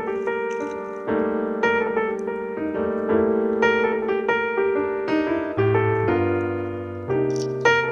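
Solo piano music, notes struck one after another over held chords in a gentle, steady flow.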